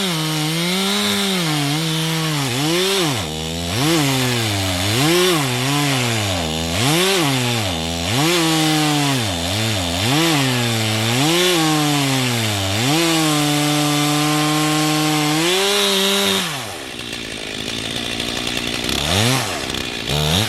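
Two-stroke chainsaw cutting through a large fir stump, its engine pitch dropping and climbing again and again as the chain bites and frees. About 16 seconds in it drops back to idle, then is briefly revved twice near the end.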